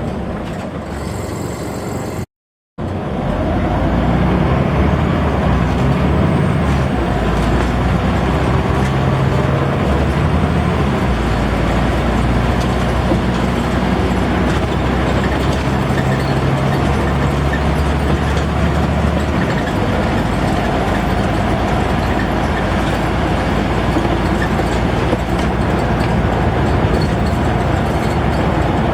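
Scania N94UD double-decker bus's five-cylinder diesel engine running under way, heard from on board, its note changing in steps a couple of times. The sound cuts out briefly about two seconds in.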